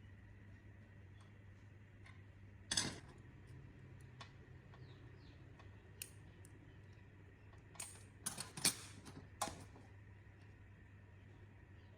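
A handful of separate sharp clicks and knocks of small hard objects, one about three seconds in and a quick cluster near nine seconds, over a faint steady low hum.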